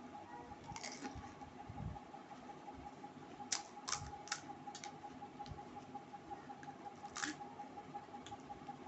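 Panipuri being eaten: a few short, crisp crunches, four in quick succession about three and a half seconds in and one more near seven seconds, over a faint steady hum.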